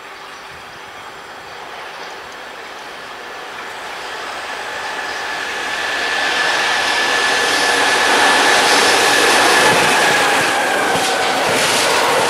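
An electric freight train, a BB 27000 locomotive hauling rolling-highway wagons carrying semi-trailers, approaches and passes close by, growing steadily louder. A high steady whine is heard through the middle, and wheel clicks come as the loaded wagons roll past near the end.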